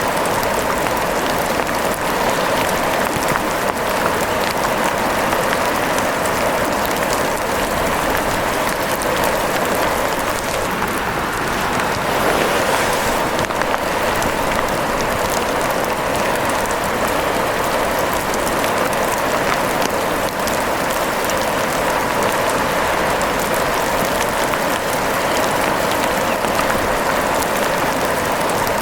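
Steady rain with dense fine pattering, holding even throughout.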